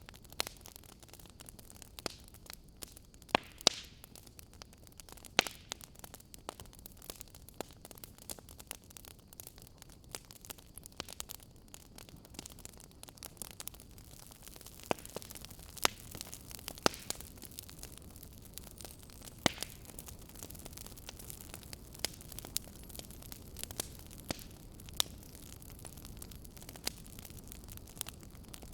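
Wood fire burning, crackling with irregular sharp pops and snaps over a steady low hiss, a few pops much louder than the rest.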